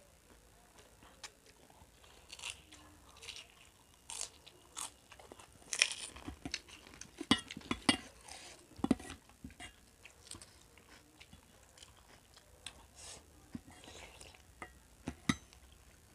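Close-up chewing and crunching of crisp snacks, heard as irregular short crackles, busiest in the middle, with now and then the click of a spoon against a stainless steel bowl.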